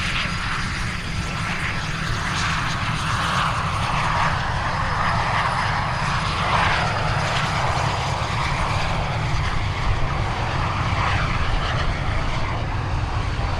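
Single-turbojet CT-114 Tutor jets of the Snowbirds running, a steady jet noise whose pitch rises and falls several times.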